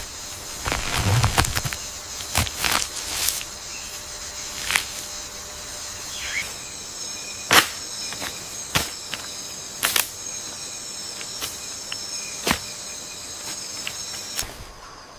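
Tropical forest ambience: insects chirring in a steady high chorus, with irregular sharp snaps and crackles scattered through it, about a dozen.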